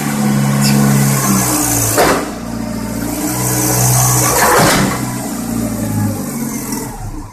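Car engine running and being revved, its pitch rising and falling, with a few sharp knocks cutting through, the loudest about two seconds in and again about four and a half seconds in.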